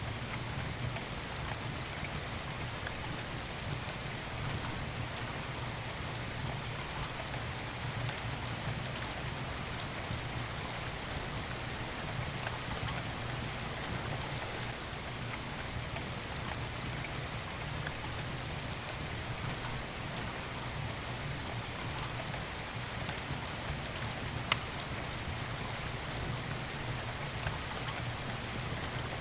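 Steady rain falling, with a wood fire crackling in scattered small clicks and one sharper pop near the end.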